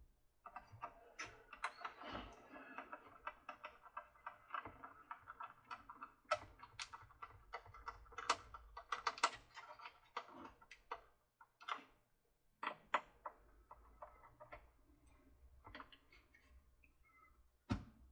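Irregular clicks, taps and rattles of plastic parts being handled as the Mr. Christmas Ferris wheel is tipped on its end and worked on at its gearbox screws.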